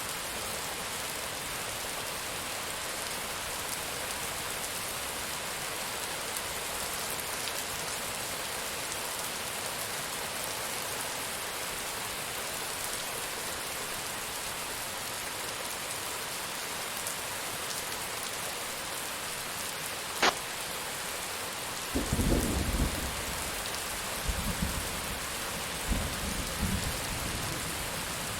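Steady heavy rain falling. About two-thirds of the way in thunder cracks once sharply, then rumbles low in several swells for a few seconds.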